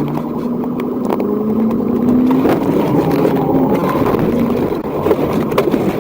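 A car's engine under hard acceleration, its note rising over the first couple of seconds, over heavy road and wind noise.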